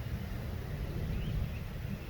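Wind buffeting the microphone as a low, uneven rumble, with a faint short high chirp about a second in.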